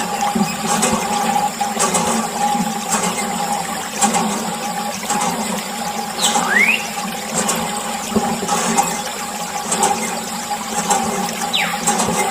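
Water gushing and splashing from a miniature DIY pump, over the steady hum of its small motor, with faint ticks about once a second and a couple of short squeaks.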